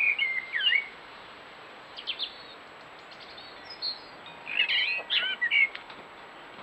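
A songbird singing short warbled phrases, one burst in the first second and a longer one about four and a half seconds in, over a steady hiss.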